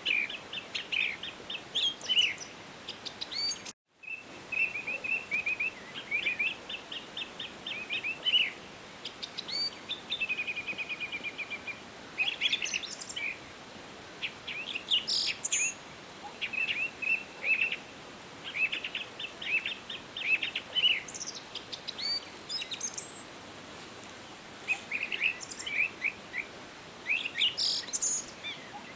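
Forest birds singing, mostly rapid chirping trills and repeated note series, over a steady faint background hiss. The sound cuts out completely for a split second about four seconds in.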